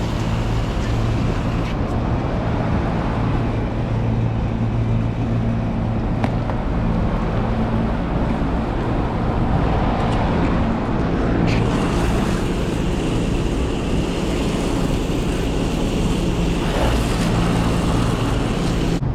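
Air-conditioning condensing unit running: a steady rush of fan air over a constant low compressor hum. The hiss turns brighter a little past halfway.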